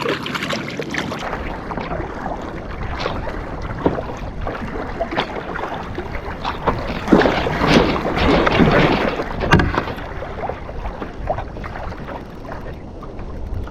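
Water splashing and sloshing around a kayak, with wind on the microphone and the odd knock against the hull. The splashing is loudest about halfway through, ending in a sharp knock.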